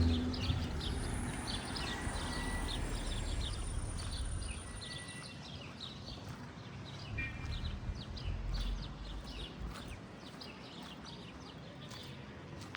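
Small birds chirping busily, many short calls overlapping. A low rumble of a passing vehicle fades away over the first few seconds.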